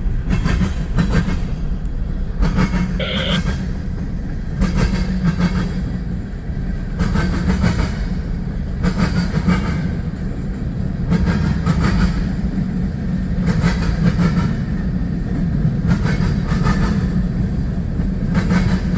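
Cars of a long CSX mixed freight train rolling past, mostly empty center-beam lumber cars and boxcars. The train makes a steady rumble with irregular sharp clicks of the wheels over the rail joints.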